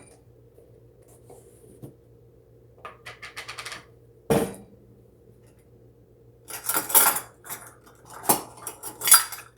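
Kitchen utensils and dishes being handled, clinking and clattering: a quick run of small clicks about three seconds in, a single knock, then a louder spell of clatter near the end. A faint steady hum runs underneath.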